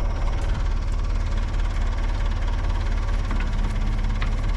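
Backhoe's diesel engine running steadily with a fast, even rumbling pulse.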